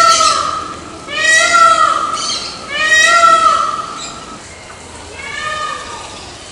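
Peafowl calling: loud, arching, wailing calls about a second long each. One comes at the start, another about a second in and a third around three seconds, then a fainter one later on.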